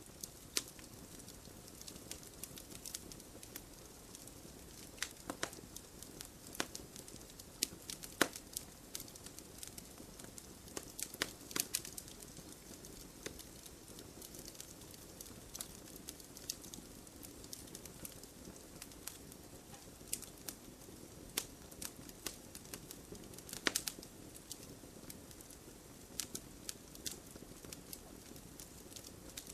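Wood campfire crackling, with frequent irregular sharp pops and snaps over a steady low burning hiss.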